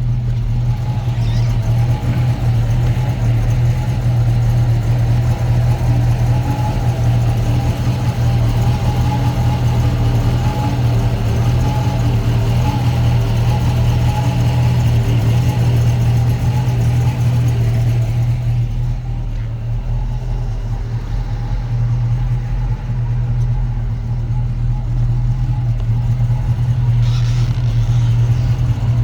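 1964½ Ford Mustang engine idling steadily, a low even rumble, at an idle the owner feels is set a hair low.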